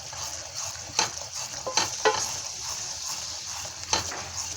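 Sugar syrup boiling in a pan with a steady hiss, cooking down toward two-string consistency. A spoon stirs it and clicks against the pan a few times.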